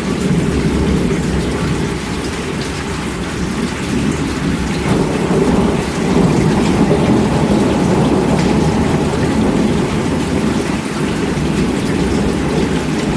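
Steady heavy rain with a deep, low rumble of thunder that swells a little around the middle.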